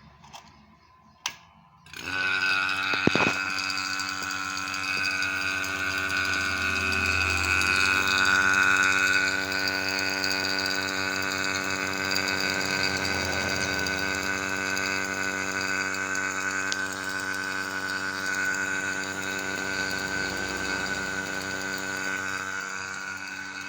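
Value rotary-vane vacuum pump switching on about two seconds in and running steadily with a hum of even pitch, pulling a vacuum on a refrigerator's sealed refrigerant system. A couple of small clicks come before it starts.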